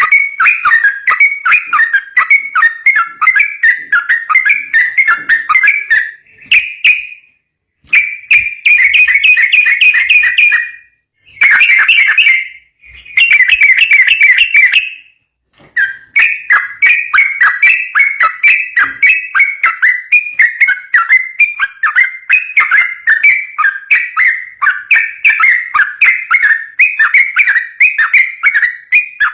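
Yellow-vented bulbul (trucukan) singing a rapid, rolling 'ropel' song: fast strings of chattering notes, broken by a few short pauses.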